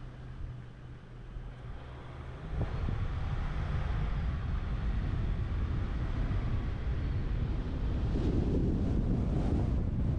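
Wind rushing over a roof-mounted action camera's microphone on a moving truck, with low road and vehicle noise under it. It gets louder about two and a half seconds in and again near the end.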